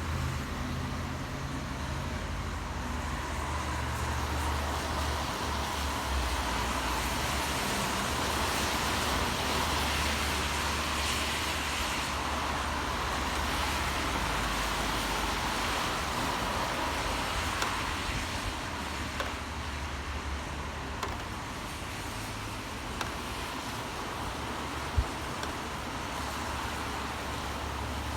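Steady city traffic in the rain: a low rumble of passing vehicles under an even hiss, with one sharp tap near the end.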